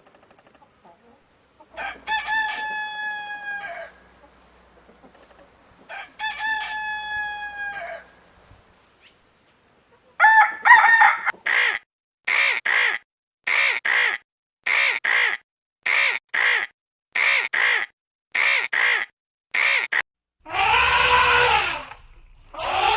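Animal calls: two long, drawn-out pitched calls of about two seconds each, then a quick run of short calls, mostly in pairs, and a louder, rougher call near the end.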